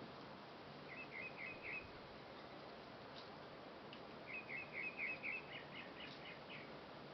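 A bird calling in two runs of quick, short chirps: a short run of about five notes about a second in, and a longer run of about a dozen notes in the middle, over a steady hiss.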